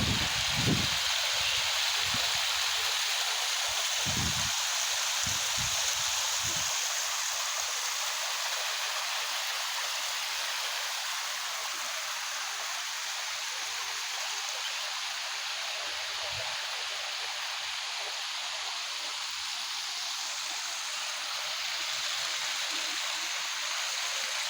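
Klenting Kuning waterfall: water falling and rushing with a steady, continuous hiss. A few low rumbling thumps come in the first several seconds.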